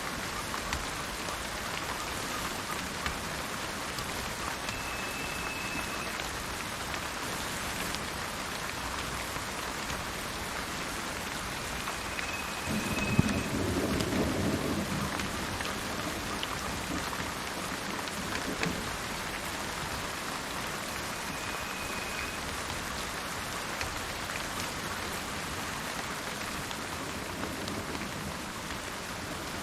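Steady rain falling, with a low roll of thunder that swells about 13 seconds in and fades over a couple of seconds. Three brief high whistled notes come through the rain at intervals.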